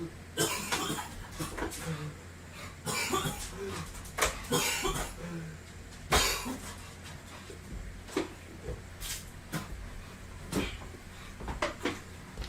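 A man coughing and hacking in a string of short, harsh bursts, a dozen or so spread over several seconds, trying to clear cinnamon powder from his throat.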